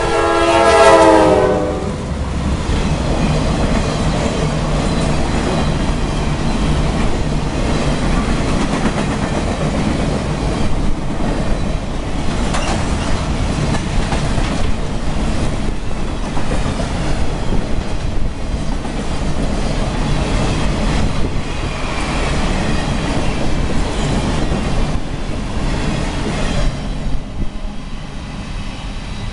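Freight train horn blowing as the CSX rock train reaches the crossing, sliding down in pitch as it goes by. Then a long string of loaded rock hopper cars rolls past with wheels clacking over the rail joints, dropping off near the end as the last cars clear.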